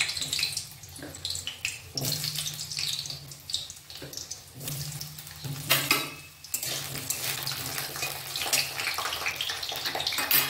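Cubes of raw potato sizzling as they fry in hot oil in a kadai, with louder spatters a few times as more pieces drop into the oil.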